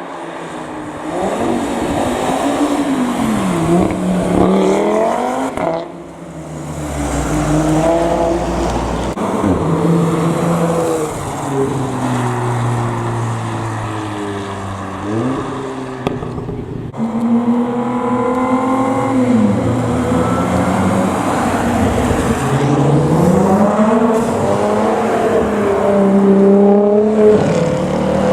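Performance car engines revving and accelerating hard, the pitch climbing and dropping again and again, in several separate passes that break off abruptly about six seconds in and again near seventeen seconds.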